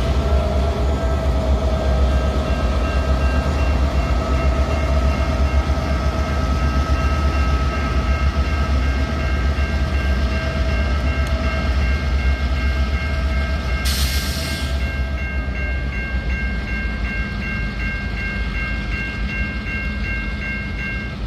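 A CN freight train's diesel locomotives moving slowly, the engines rumbling low with a steady whine that fades out near the end. A bell rings in an even, repeating pattern through most of it, and a short burst of hiss comes about fourteen seconds in.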